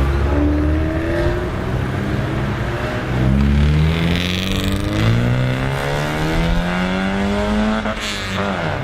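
Car engine accelerating away, its pitch climbing steadily, then dropping sharply near the end at a gear change.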